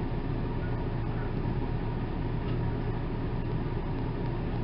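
Steady low hum with an even hiss over it, the sound of a running fan or similar room machinery.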